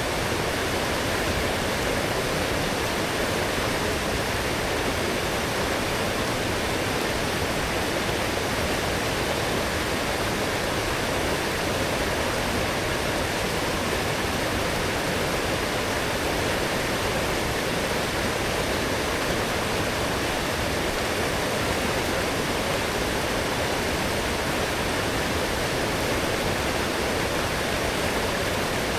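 Forest stream running full after heavy rain: a strong, steady rush of flowing water with no other sounds.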